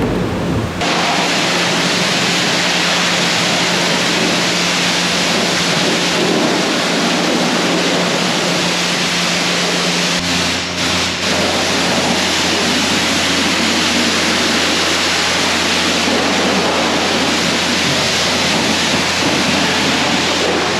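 High-pressure washer wand spraying water in a steady hiss, starting abruptly just under a second in, with a brief dip about ten seconds in. A steady low hum runs underneath and drops in pitch at the same point.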